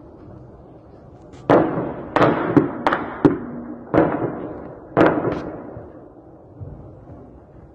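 Sporadic gunfire from an exchange of fire: about eight sharp shots at irregular spacing, bunched in the first half, each echoing off.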